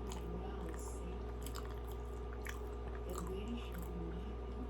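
Close-up chewing of a soft doughnut, with scattered wet mouth clicks and smacks, over a steady low hum.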